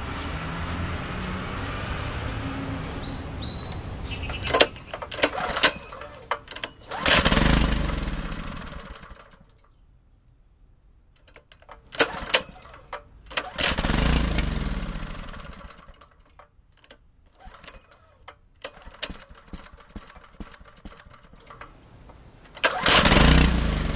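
Central Machinery 6.5 HP overhead-valve Honda-clone engine being pull-started: three times it fires and runs for a second or two, then dies away with falling pitch, with rattles and clicks between the pulls. The engine starts but will not keep running, a fault the owner has not traced despite a cleaned carburetor and fresh fuel.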